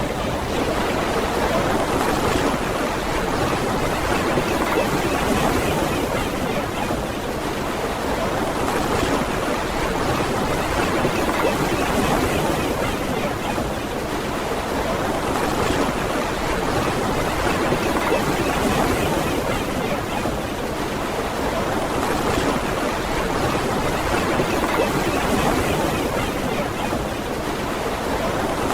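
Ocean waves washing onto a beach in a steady, continuous wash that swells and eases gently every few seconds.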